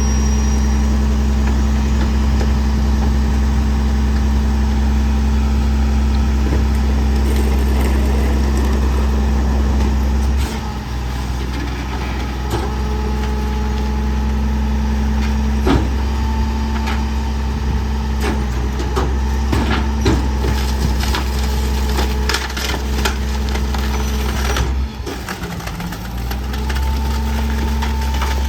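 Garbage truck engine running steadily while its compactor crushes bulky trash, with wood cracking and splintering in a series of sharp snaps. The engine note drops about ten seconds in and dips again briefly near the end.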